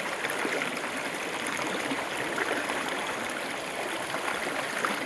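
Small stream flowing: a steady rush of water.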